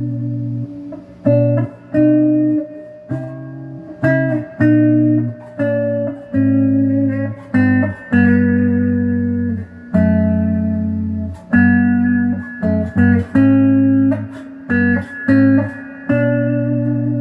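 Donner DLP124 electric guitar with its stock pickups, played through an amplifier on the middle pickup setting: chords and short picked phrases, each struck sharply and left to ring and fade.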